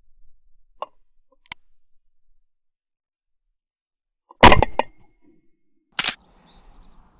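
Two shotgun shots from a Browning GTS over-and-under, the first about four and a half seconds in with a short ringing tail, the second a sharper, briefer crack about a second and a half later. Two faint clicks come earlier.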